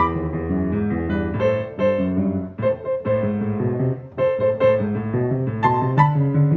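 Piano being played: chords and notes struck one after another, with short breaks about two and a half and four seconds in.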